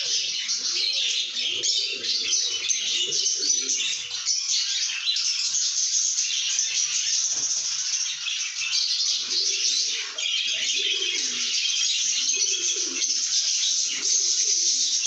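A group of lovebirds chattering and squeaking without pause, a dense high-pitched twittering. A lower-pitched chatter joins in for stretches.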